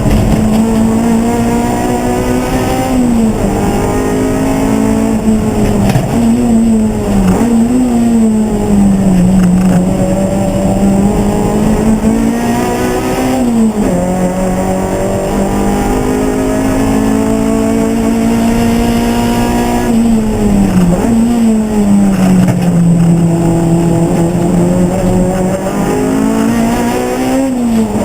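Race car engine running hard for the whole stretch, its pitch climbing steadily and then dropping sharply at each gear change, with repeated dips and climbs as it slows for corners and accelerates out.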